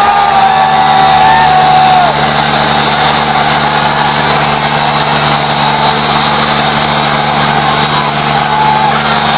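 Diesel tractor engines running loud and steady under load in a tractor tug-of-war. A long high held tone sounds over them for the first two seconds.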